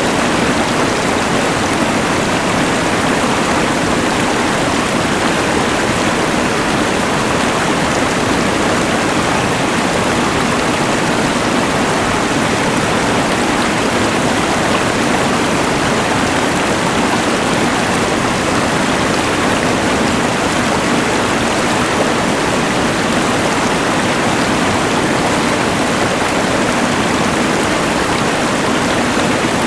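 Rushing mountain river together with the steady hiss of a LectroFan white noise machine: an even, unchanging rush of water and noise.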